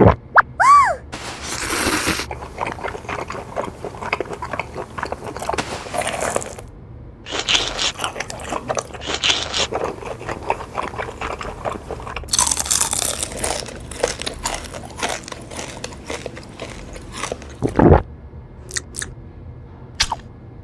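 Close-up crunchy chewing and biting of food, with irregular crackling crunches.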